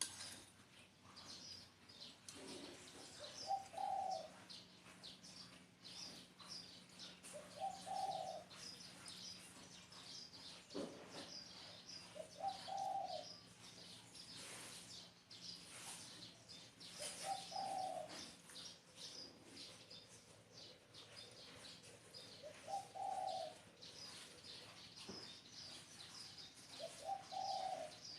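Spotted dove cooing, a short low coo repeated six times about every four to five seconds, with small birds chirping high and steadily throughout.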